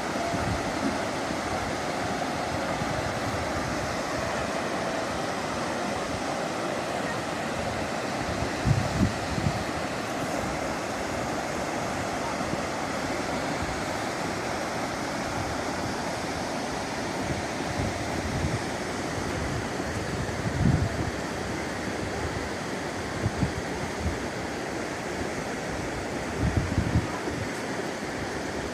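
Flash-flood water rushing steadily down a wadi channel, a constant noisy rush. A few short low buffets of wind on the microphone come about a third of the way in, around two-thirds in, and near the end.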